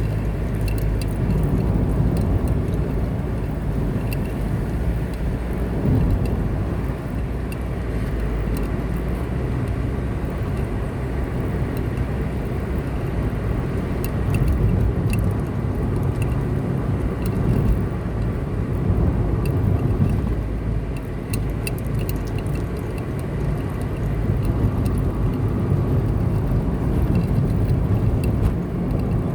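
Car driving along a road: a steady engine and tyre rumble, with faint light clicks and taps now and then.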